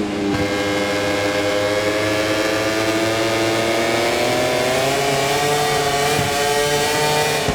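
Onboard sound of Marco Bezzecchi's Aprilia RS-GP MotoGP bike, its V4 engine running at high revs over wind rush. The engine pitch sags gently for the first few seconds, then climbs and holds high as the bike drives on.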